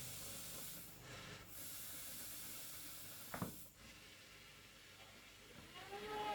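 Two long hisses of pressurised gas escaping, the second with a sharp click near its end.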